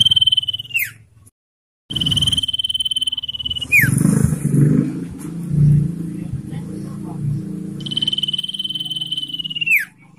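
Common iora giving long drawn-out whistles, each held steady for about two seconds and ending in a quick downward slide; three come in turn. A low rumble runs underneath from about four seconds in.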